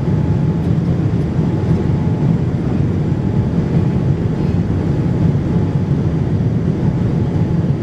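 Steady low rumble of a Boeing 787-9 Dreamliner's cabin in flight: engine and airflow noise, even and unchanging.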